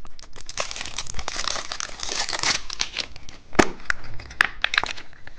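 A candy wrapper crinkling as a packaged candy egg is opened, with a few sharp clicks and snaps of packaging in the second half.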